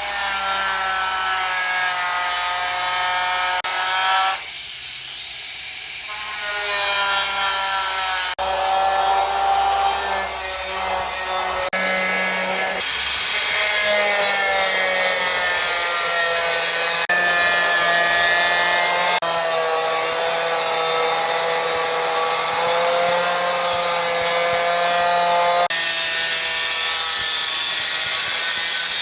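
A power tool running under load in long stretches, a steady whine that drifts slightly in pitch and changes abruptly several times, as when cutting or drilling into wood.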